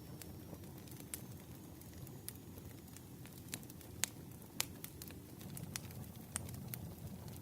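Campfire burning: a low, steady rumble of flames with sharp, irregular crackles and pops, the loudest about four seconds in and again half a second later.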